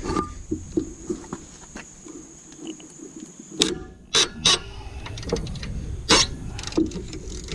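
Hand tools knocking and clicking against metal engine parts: a scattering of sharp knocks over a low steady hum, the loudest about halfway through and again near the end.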